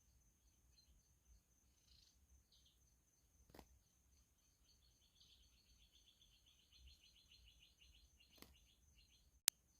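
Faint small-bird chirps, building into a rapid run of repeated high chirps in the second half, with two soft clicks and one sharp click near the end.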